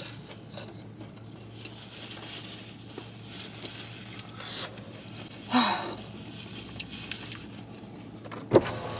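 Quiet eating in a car: chewing of fried mozzarella sticks with faint rustles and small clicks over a low steady hum, a short voiced sound a little past halfway, and a sharp knock near the end.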